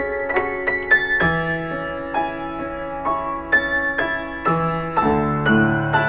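Yamaha B1 upright piano playing a slow, gentle melody over held bass notes, each note struck and left ringing.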